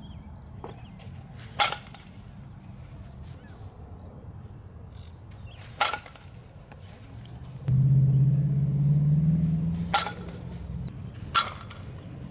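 Four sharp single impacts of a softball striking something, a few seconds apart, the last two close together; a low steady hum comes in for about three seconds near the middle.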